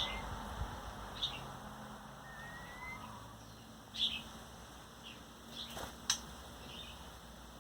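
Male shama giving sparse short high chirps, about one every second or two, with a couple of faint thin rising whistles, during a territorial standoff between two male shamas.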